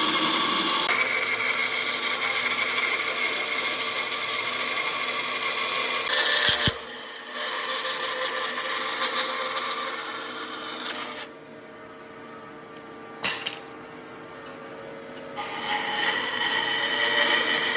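A power tool working wood, running steadily with a steady hum in its noise. It drops briefly about six and a half seconds in, then goes much quieter for about four seconds from around eleven seconds, with a couple of sharp knocks, before running again near the end.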